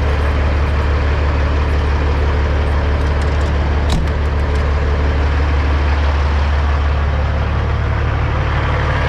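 Semi-truck diesel engine idling steadily with a deep, even hum, and a single click about four seconds in.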